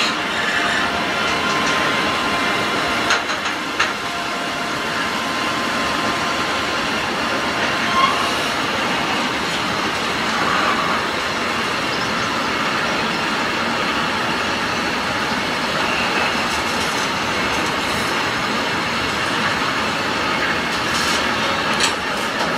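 Container freight wagons rolling past at steady speed, a continuous rumble of steel wheels on rail, with short high wheel squeals now and then.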